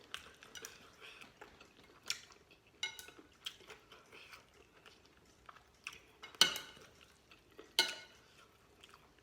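Spoon and chopsticks clinking and scraping against a noodle bowl, a scatter of light knocks with two louder ringing clinks about two-thirds of the way through.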